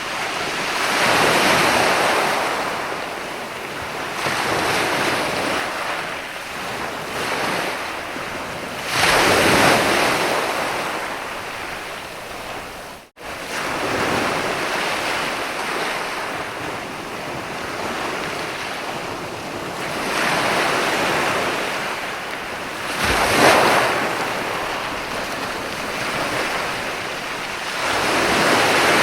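Mediterranean sea waves breaking and washing up onto a beach, rising in loud surges every few seconds and ebbing between them. About halfway through the sound drops out for a split second.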